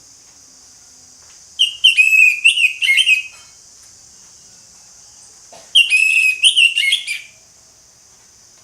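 Orange-headed thrush singing loudly in full song: two quick phrases of varied whistled notes, the second starting a couple of seconds after the first ends, over a steady faint high hiss.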